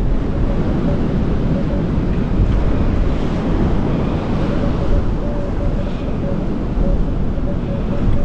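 Strong wind buffeting the microphone, with waves breaking in the surf, a steady rumbling noise. A faint, broken tone from a metal detector comes and goes in short pulses through the second half.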